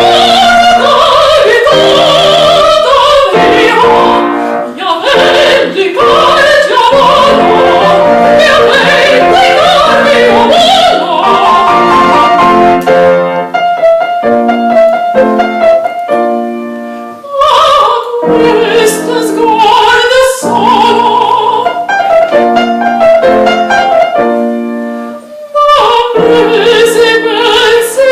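A classically trained voice singing in operatic style with piano accompaniment, phrase by phrase with brief breaths between.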